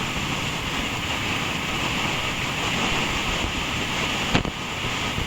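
Wind rushing over the microphone together with motorcycle engine and road noise while riding, with a single short knock about four seconds in.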